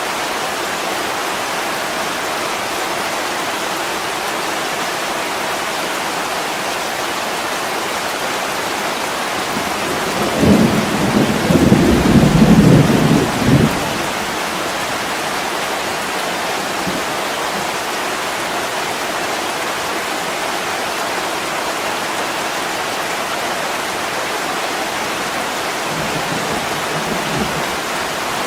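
Heavy rain pouring steadily on a window pane. A low rumble of thunder comes about ten seconds in and lasts some four seconds, and a fainter rumble follows near the end.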